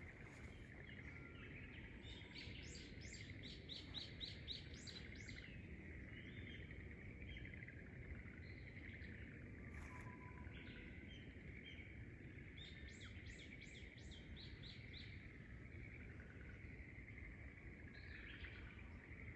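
A songbird singing two bursts of fast repeated high notes, one a few seconds in and another past the middle, over faint outdoor background noise.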